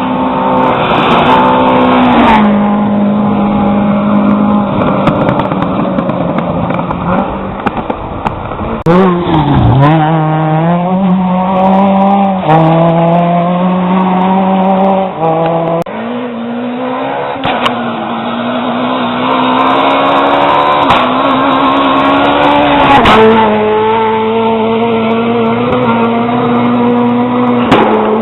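Rally car engines running hard at high revs, the note stepping down and climbing again with gear changes. About ten seconds in, the engine note drops sharply and climbs straight back up.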